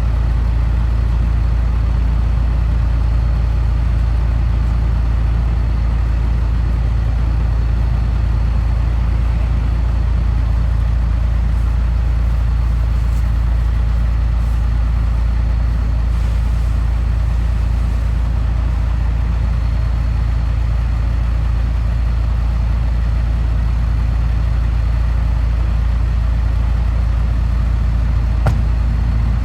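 Leaf collection truck's engine running steadily with a deep, unchanging low rumble, and a faint steady high tone over it; a single short click near the end.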